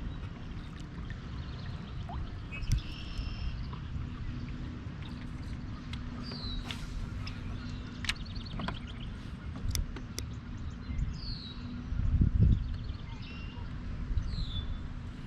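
Water splashing and trickling around a kayak over a low, steady wind-and-water noise, with a bird giving short falling calls about four times and a few sharp clicks.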